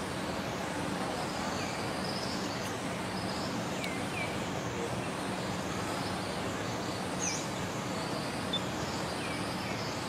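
Steady outdoor background noise with a bird giving short falling chirps, often in pairs, every couple of seconds.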